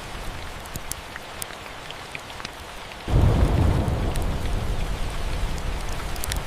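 Steady rain with small scattered crackles from a fireplace. About three seconds in a low thunder rumble breaks in suddenly and then slowly fades.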